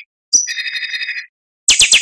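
Oriental magpie-robin (kacer) singing: a short rapid trill shortly after the start, then after a brief pause a fast chattering phrase of about ten high notes a second begins near the end.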